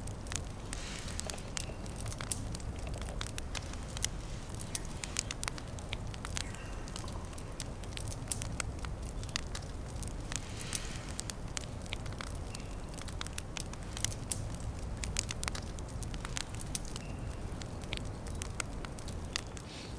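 Small campfire crackling, with frequent sharp pops and snaps throughout over a steady low rumble.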